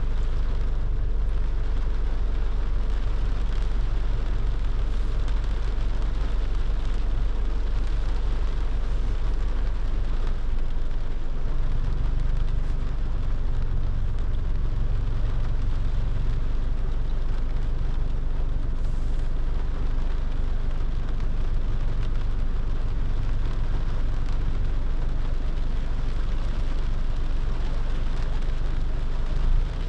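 A car driving in the rain: a steady low rumble of engine and tyres on the wet road under an even hiss of rain.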